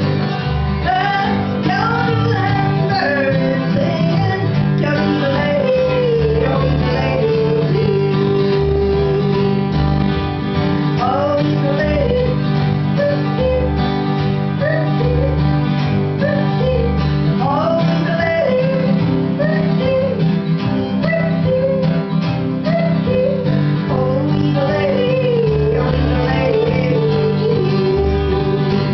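Live traditional country music: a woman sings a melody with quick leaps in pitch over acoustic guitar and plucked-string accompaniment.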